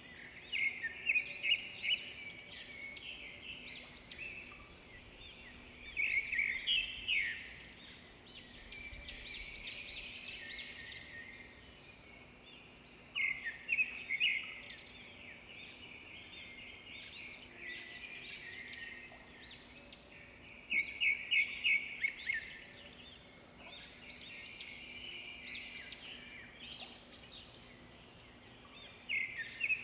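Songbirds singing: a loud phrase of quick, high notes repeats about every seven seconds, with softer chirps and twitters between the phrases.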